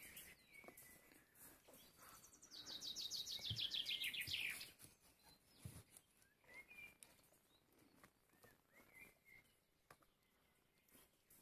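A songbird sings one fast trill of rapidly repeated high notes, falling in pitch over about two seconds, a few seconds in. A few faint short chirps come before and after.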